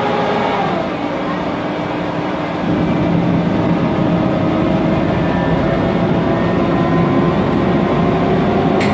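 Mercedes-Benz Conecto CNG city bus under way, its Voith DIWA automatic gearbox whining over the engine and cooling-fan noise. The whine drops in pitch about half a second in, as at a gear change, then climbs slowly and steadily; the noise gets louder about two and a half seconds in.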